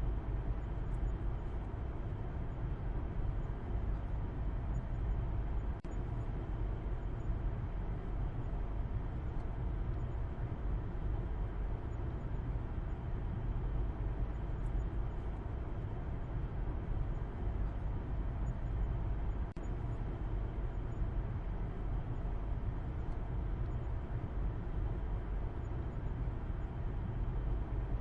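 Steady low rumble of a car driving, with road and engine noise and no change in pace. A couple of faint ticks come through about six seconds in and again near twenty seconds.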